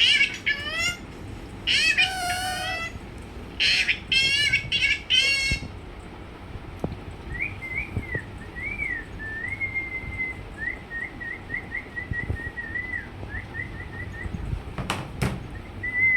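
Pet parrot vocalising: several loud wavering meow-like calls over the first five seconds or so, then a quieter run of thin whistled notes, quick trills and short glides, with two sharp clicks near the end.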